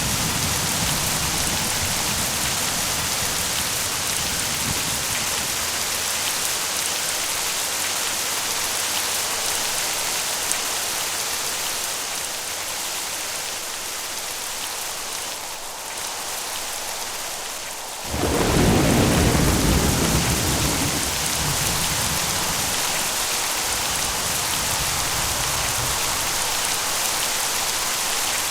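Steady heavy rain hissing, with low thunder rumbling. About two-thirds of the way through, a sudden loud clap of thunder breaks in and rolls away over a few seconds.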